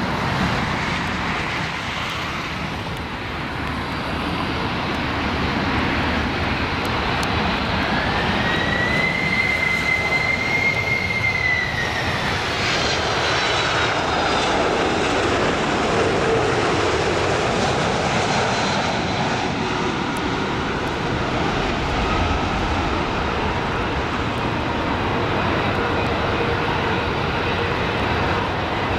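Jet engines of a Boeing 767-300 airliner running steadily as it comes in to land. A high whine rises about eight seconds in, holds, and fades a few seconds later.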